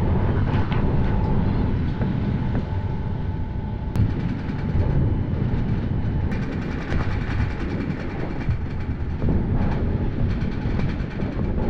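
Passenger train running, heard from inside the carriage: a steady low rumble of wheels on track, with a couple of sharp clicks about four and six seconds in.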